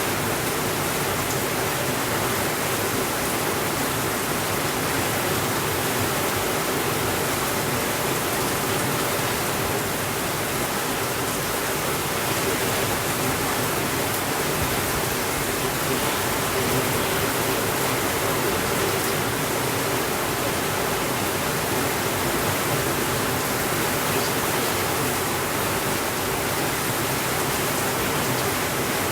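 Heavy rain falling steadily on a window, an even, unbroken hiss.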